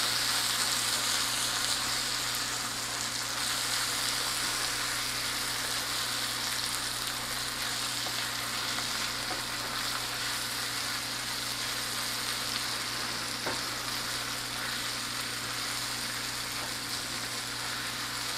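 Ground turkey with diced onions and bell peppers sizzling steadily in a hot frying pan, being stirred and broken up with a high-heat spoon.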